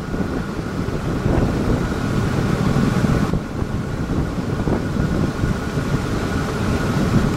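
Gusty wind buffeting the camera microphone: a steady low rumble that swells and eases.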